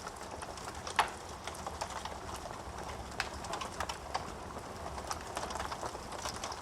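Wood fire burning in a fireplace, crackling with irregular small pops over a soft hiss of flames, with one loud pop about a second in.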